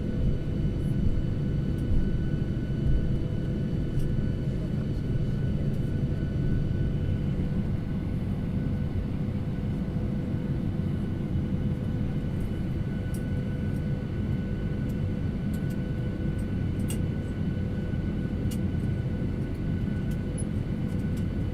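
Jet airliner cabin noise as the aircraft taxis after landing: a steady low engine and air rumble with a few thin steady tones above it, and occasional faint clicks.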